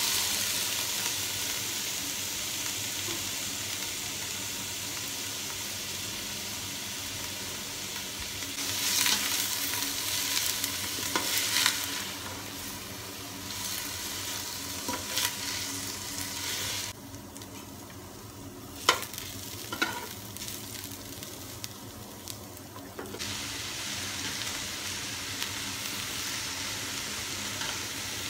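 Chopped onions and then mixed vegetables sizzling as they fry in a stainless steel pot, stirred with a metal slotted spoon that scrapes and clinks against the pot. The sizzle dies down for several seconds past the middle, with one sharp clink, then comes back.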